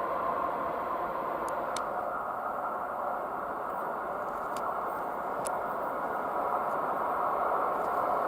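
ER2T electric multiple unit approaching along the track, heard as a steady rushing rumble that grows louder near the end, with a few faint ticks.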